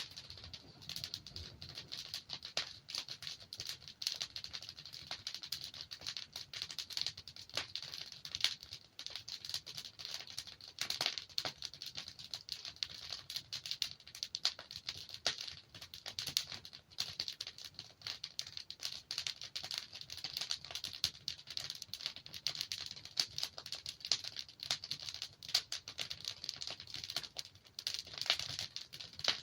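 Wood fire burning in a fireplace: a steady hiss with dense, irregular crackling and sharp pops from the burning logs.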